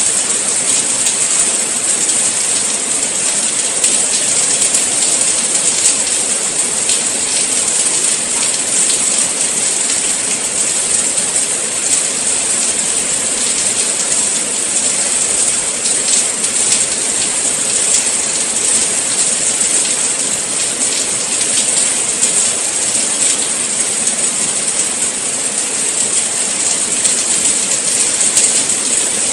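Steady rain falling, a dense even hiss with the fine patter of many drops.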